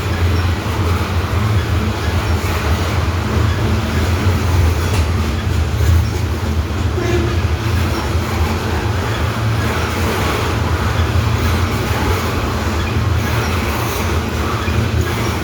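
Freight train running past: a steady low rumble with the noise of rolling rail cars.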